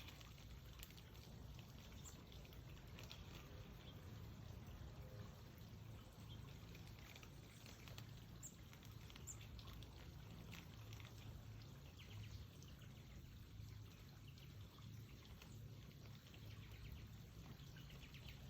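Near silence: faint outdoor background with a steady low rumble and scattered faint bird chirps.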